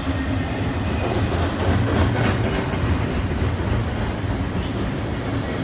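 BNSF double-stack intermodal freight train rolling past: a steady rumble of steel wheels on rail, with a few clacks from the wheels.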